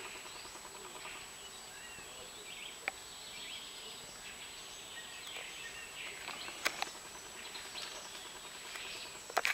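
Quiet forest ambience with faint bird chirps scattered throughout, and a few small sharp clicks.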